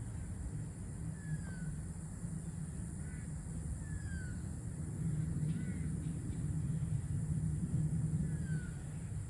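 Birds calling outdoors: short, thin, falling calls every couple of seconds, over a steady low rumble.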